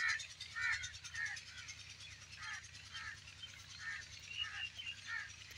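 A bird calling repeatedly in short chirps, about two a second, over a steady low rumble.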